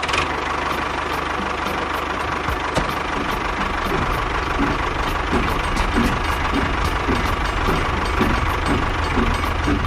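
Small motor of a miniature DIY construction vehicle running steadily, with a low rumble and a light regular ticking.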